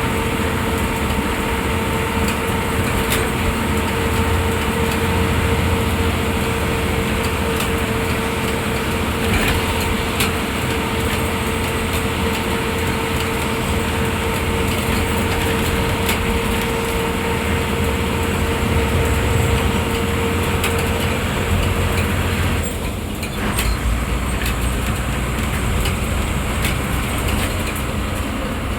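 Diesel engine and road noise of an MSRTC state-transport bus, heard from the driver's cabin while driving, with a steady whine. About three-quarters of the way through the whine stops and the engine note briefly drops before running on.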